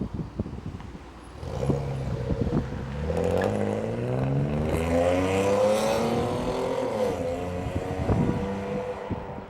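A car engine pulling away and accelerating, its pitch climbing for several seconds and then dropping and fading as it passes.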